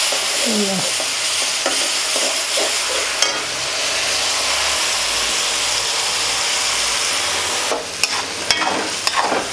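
Chopped papaya sizzling as it fries in hot ghee in a metal kadai, stirred with a steel spatula, a steady hiss throughout. Near the end the spatula scrapes and clinks against the pan a few times.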